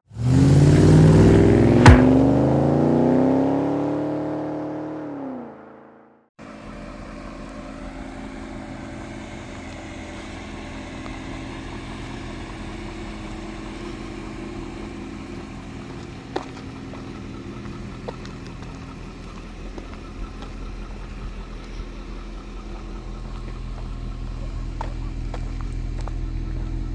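A BMW E39 M5's 4.9-litre V8 revved up and falling back, its pitch rising for about four seconds and dropping away, with a sharp click near the start. After a brief silence comes a steady, lower drone of the car with a few light clicks, slowly growing louder.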